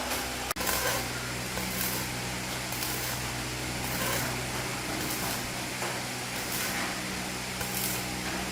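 Steady low mechanical hum from a running machine or motor, with a sharp click about half a second in and faint brief scraping noises now and then.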